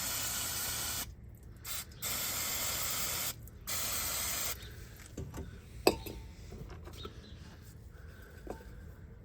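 Aerosol brake cleaner sprayed in three hissing bursts of about a second each, each cutting off abruptly. A single sharp knock follows about six seconds in, with a few light taps.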